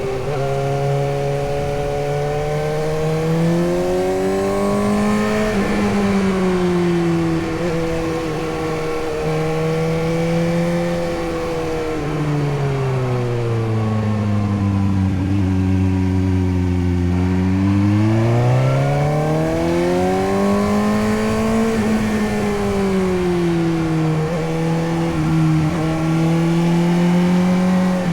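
Suzuki GSX-S750's inline-four engine on the move, its pitch rising and falling with throttle and gear changes. Past the middle it drops to a low, slow drone, then picks up again.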